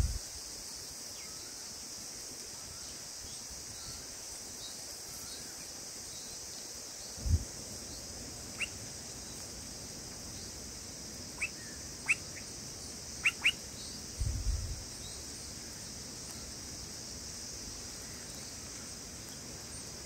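Short, sharp bulbul chirps at the nest, about six of them scattered through the middle and including a quick pair, over a steady high hiss. Two low thumps break in, one about a third of the way in and one about two thirds in.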